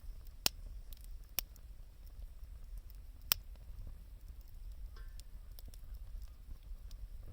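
Wood fire crackling: scattered small ticks and three sharp pops, about half a second, a second and a half and three seconds in, over a low steady rumble.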